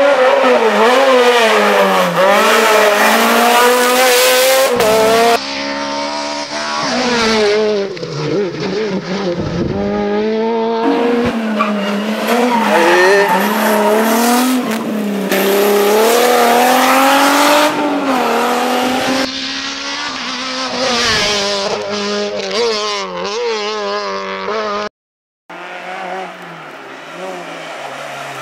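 Rally cars driven flat out, engines revving high and changing gear, rising and falling in pitch. It comes in several short takes that cut abruptly from one to the next, with a brief dropout near the end.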